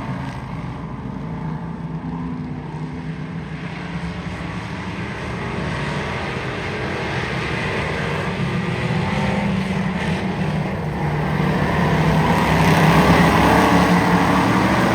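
Race car engine running steadily at speed. It grows louder over the last few seconds.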